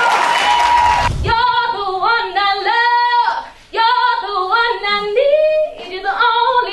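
Crowd cheering and applause that cuts off abruptly about a second in, followed by a woman singing unaccompanied, holding and bending sustained notes with short breaks between phrases.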